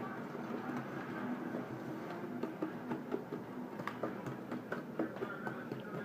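A utensil stirring thick cake batter in a mixing bowl by hand, with continuous scraping and irregular clicks against the bowl.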